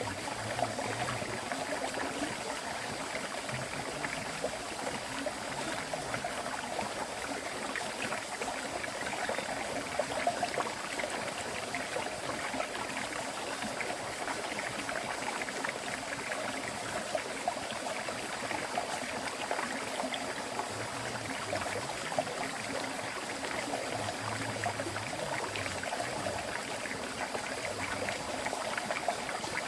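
River water flowing steadily, a continuous babble and trickle of water.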